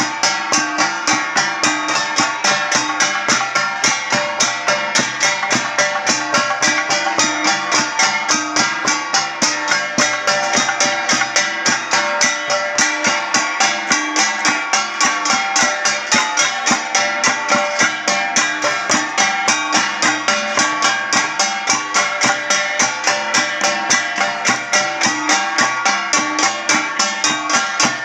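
Ifugao traditional gong music: gongs struck in a fast, steady beat of about four or five strokes a second, with a drum, their ringing overlapping.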